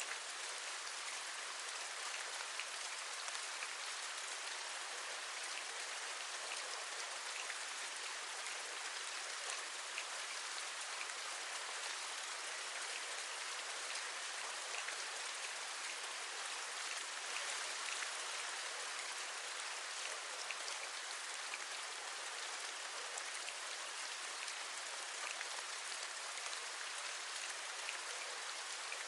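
Steady rain: a dense, even hiss with many small drops tapping.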